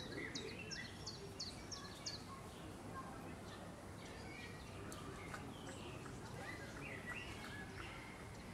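Songbirds calling over steady outdoor background noise: a quick run of high, falling notes in the first second or so, then scattered chirps.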